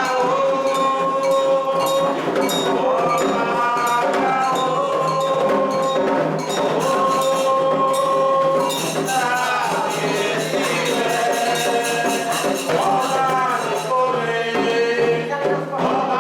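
Candomblé ritual song for Xangô: voices singing a melody of long held notes over a quick, steady rattling percussion rhythm.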